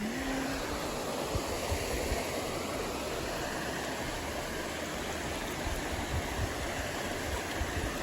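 Steady rush of flowing water from a stream or small waterfall.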